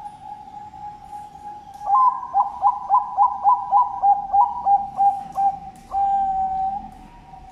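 Zebra dove (Bangkok perkutut) cooing song: a soft drawn-out lead-in note, then a rolling run of about a dozen quick notes, each dipping in pitch, ending in one longer held note.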